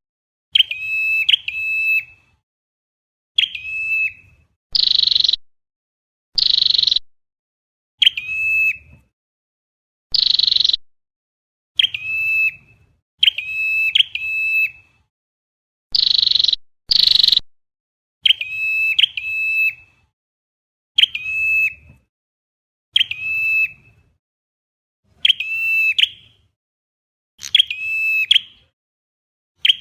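Scarlet-backed flowerpecker calls on a looped trapping-lure recording: short, sharp, high chip notes in twos and threes, repeated every second or two, mixed about five times with a longer harsh buzzy note, with dead silence between the calls.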